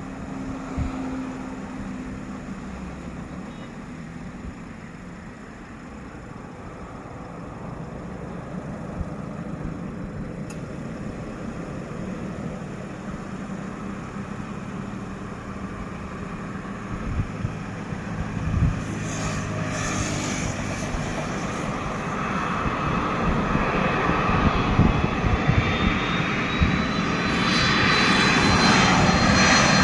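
Airliner approaching to land, its engine noise growing steadily louder as it nears, with a high whine rising slightly over the last few seconds.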